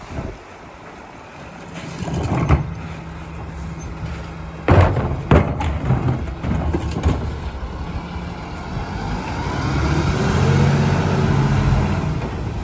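Garbage truck engine running, with several sharp metallic bangs, the loudest about five seconds in, then the engine revving up and holding as the hydraulic packer compacts the trash.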